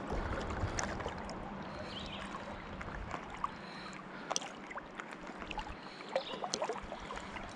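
River water sloshing and splashing around a person's legs as they wade through knee-deep current, with small irregular splashes over a steady rush of flowing water.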